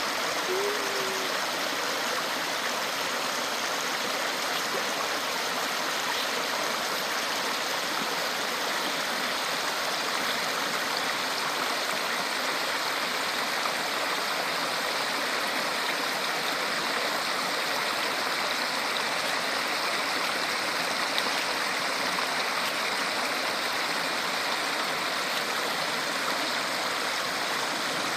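Small waterfall, falling water splashing with a steady rushing sound.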